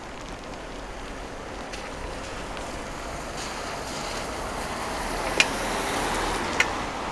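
Steady rain hiss mixed with wind noise on the microphone, swelling a little toward the end, with two sharp taps near the end.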